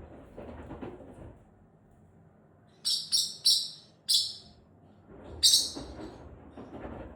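Forpus parrotlet giving sharp, high chirps: three in quick succession, another a moment later, then one longer call.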